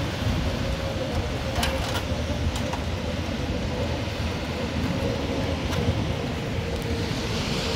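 Heavy rain falling steadily, heard through an open window, with a faint steady hum beneath it and a few sharp clicks about 1.5 to 6 seconds in.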